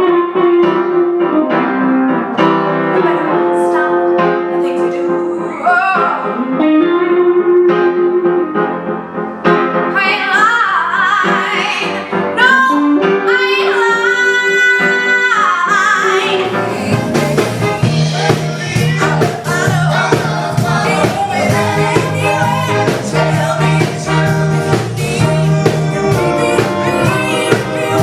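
A woman singing a musical theatre song over piano accompaniment, holding a high note with vibrato about halfway through. About 17 seconds in, a fuller band with a bass line and drums comes in.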